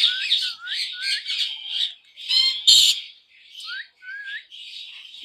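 Pet parrot calling: a series of short rising whistles, with two loud harsh squawks near the middle.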